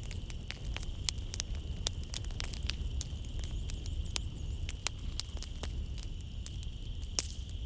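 Wood fire in a fireplace crackling, with many sharp pops and snaps over a low steady rumble. A constant high chirring of night insects runs underneath.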